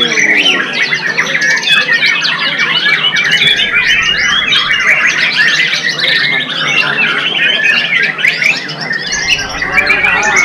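White-rumped shama singing loudly in an unbroken, fast stream of varied whistles and chattering phrases.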